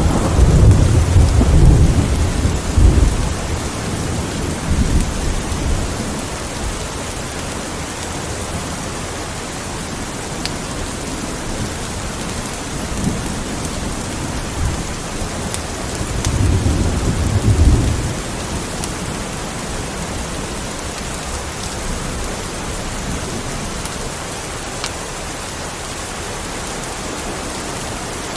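Steady rain hissing, with rolls of deep thunder: a long rumble in the first few seconds and another about two-thirds of the way in. A few faint crackles from a fireplace are scattered through.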